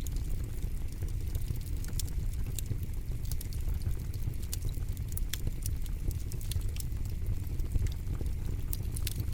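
Campfire burning with a steady low rumble and frequent, irregular sharp crackles and pops from the burning wood.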